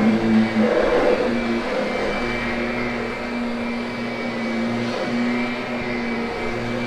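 Kirby upright vacuum cleaner running steadily with a constant motor hum while grooming carpet.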